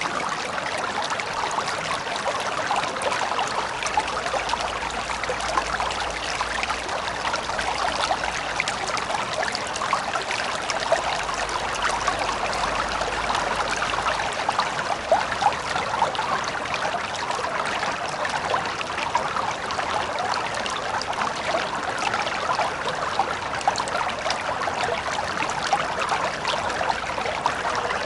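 Shallow river water flowing steadily, a continuous babbling with many small splashes and trickles.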